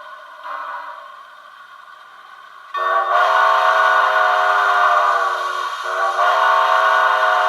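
Recorded steam-whistle sound from an Econami sound decoder played through a small cell-phone speaker in an HOn3 model 2-8-0: a quiet hiss, then a loud whistle blast about three seconds in, sagging slightly in pitch, a brief break about six seconds in, and a second blast.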